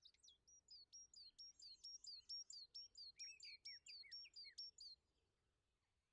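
Faint birdsong: a quick run of short, repeated chirps, about three a second, that stops about five seconds in.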